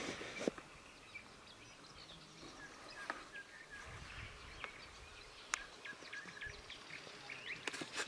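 Small birds chirping in short, scattered calls over a quiet outdoor background. There is a brief burst of rustling at the very start and a few sharp ticks later on.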